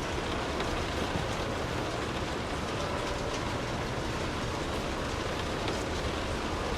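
Steady rainfall, an even hiss of rain with a few separate drops standing out now and then.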